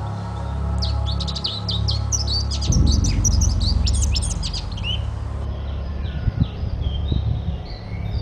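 Songbirds singing, a dense run of rapid high chirps and trills that thins out to scattered calls about five seconds in, over a steady low drone.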